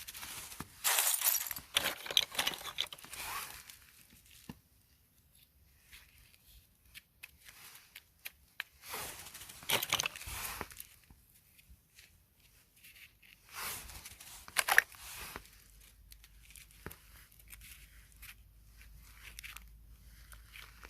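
Rustling, tearing noise in three bursts, the first and longest lasting a few seconds, mixed with sharp clicks.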